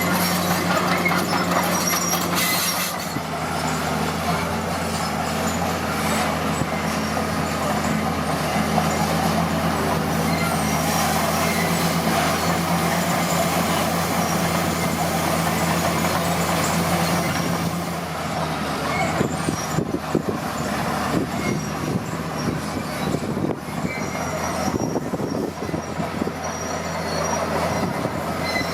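Komatsu D41P crawler bulldozer working: its diesel engine runs steadily while the steel tracks clank and squeal. About two-thirds of the way in the steady engine note fades and the track clatter turns rougher and more uneven.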